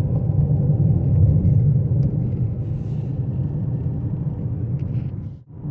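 Steady low rumble of a car's engine and tyres heard from inside the cabin while driving, dropping out briefly just before the end.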